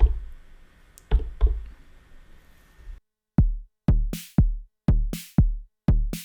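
Arturia DrumBrute Impact analog drum machine: a few single kick-drum hits, then from about three seconds in a sequenced beat, a steady run of kick hits with bright, noisy cymbal-like hits on some of the steps.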